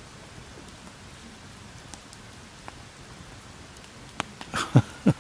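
Steady patter of rain. Near the end come a couple of sharp knocks and short sounds that fall in pitch.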